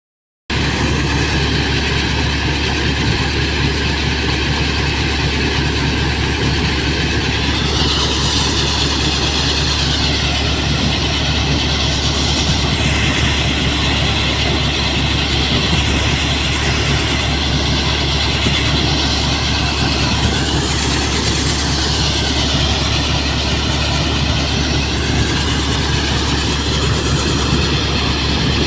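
Tractor driving a threshing machine, running steadily and loud, with a deep constant hum under a dense mechanical noise whose higher part changes several times.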